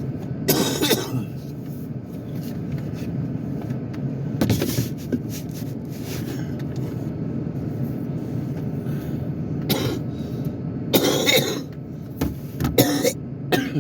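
A man coughing and clearing his throat in several short fits. Under the coughs is the steady low hum of a Ford Edge's engine idling.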